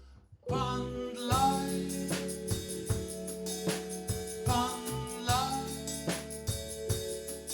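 Live band music: after a brief near-quiet pause, the full band comes in about a second in, with regular drum hits under sustained instrumental notes.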